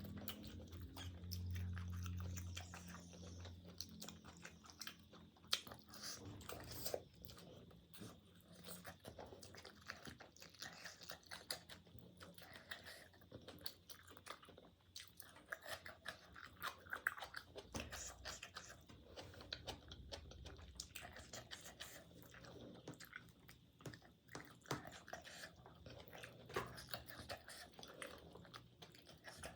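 A person chewing and biting food close to the microphone, a dense run of irregular small crunches and mouth clicks.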